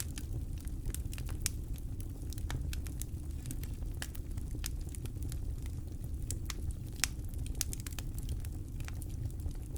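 Campfire crackling, with frequent irregular sharp pops from the burning wood over a steady low rumble. One louder pop comes about seven seconds in.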